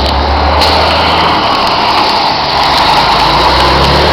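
Heavy rain coming down hard, a loud steady hiss, over the low hum of a running vehicle engine.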